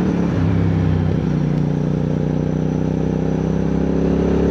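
Motorcycle engine of a CFMoto 450NK running at steady revs while riding, over wind and road noise.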